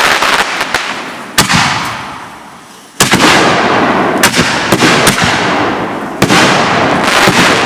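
Fireworks going off: a string of sharp bangs, each followed by a loud crackling hiss that slowly fades away.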